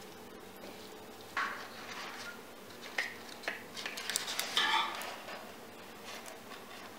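Dishes and cutlery being handled: a string of clinks, taps and scrapes over a few seconds, the loudest a ringing clatter about two thirds of the way through.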